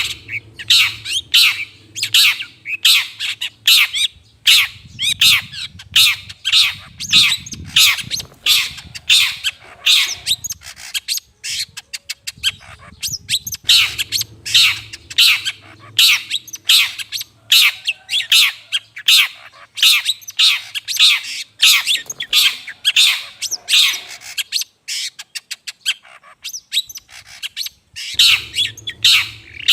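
Long-tailed shrike (cendet) giving harsh, squawking calls over and over, each a quick downward sweep, about two to three a second, with a faster run of short notes near the end. It is the kind of call played as a lure to draw in other shrikes.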